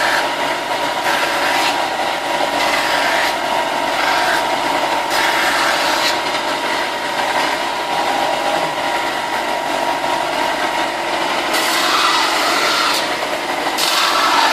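Electric sander running at a steady pitch, with rasping that swells and fades every second or so as a plastic armor piece is pressed against it and worked.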